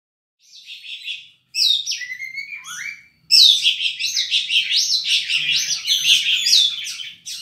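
Oriental magpie-robin (kacer) singing: a few short phrases at first, then from about three seconds in a loud, continuous, fast song of varied rising and falling whistled notes.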